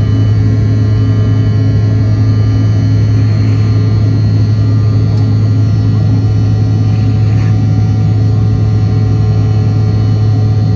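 Steady engine drone inside the cabin of a CRJ-900 jet, from its rear-mounted GE CF34 turbofans: a strong low hum with several steady whining tones above it, unchanging in level.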